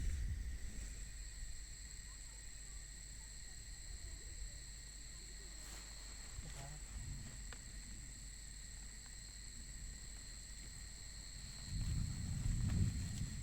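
Steady, high night-insect chirring, with wind rumbling on the microphone at the start and again near the end.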